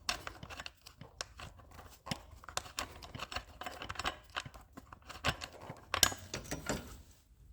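Irregular small clicks, taps and knocks of hand tools and metal and plastic parts being handled during disassembly of a portable generator's carburetor area.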